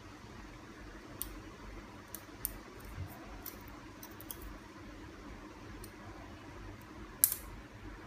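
Small clicks and taps of bird-control spikes being pushed into the holes of their base strip, scattered and irregular, with one sharper, louder click near the end.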